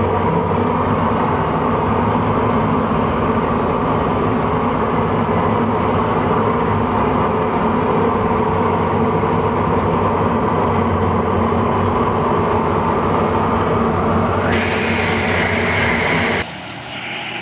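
Engine of a Toyota Land Cruiser hardtop running steadily under load while hauling fruit on a wet track. About three-quarters of the way through, a loud hissing noise joins the engine, and near the end the sound drops suddenly.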